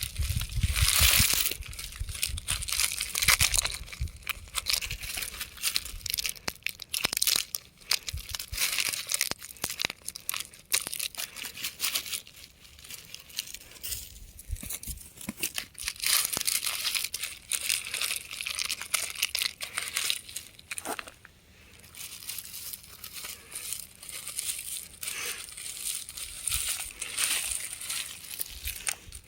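Rock crumbling and crunching: a dense, irregular run of crackles, with heavier low thuds in the first few seconds.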